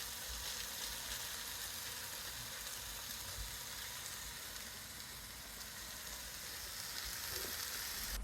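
Seasoned chicken and serrano peppers frying in a pan, a steady sizzle.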